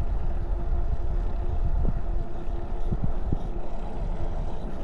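Riding noise of a Mooncool TK1 electric trike under way: wind buffeting the microphone, with a faint steady hum and a few short bumps.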